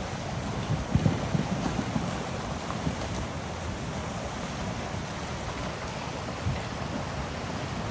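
Creek in spate carrying broken ice after an ice jam gave way: a steady rush of fast water with a few low thumps, the loudest about a second in.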